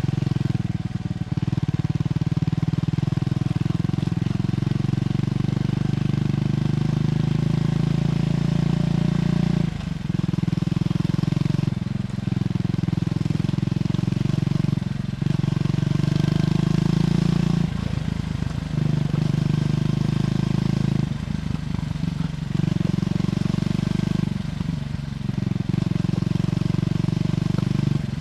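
Triumph Scrambler 400X's single-cylinder engine running at steady revs through its stock exhaust. The note breaks off briefly several times, about a second, ten, twelve, fifteen, eighteen, twenty-two and twenty-five seconds in, then picks up again.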